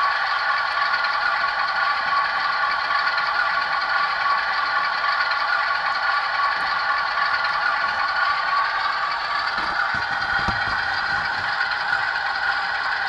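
Model diesel locomotive's sound decoder playing a GE Evolution Series (GEVO) prime mover running steadily through a small onboard speaker, thin and without low bass, with a rattle that the owner traces to something inside the model.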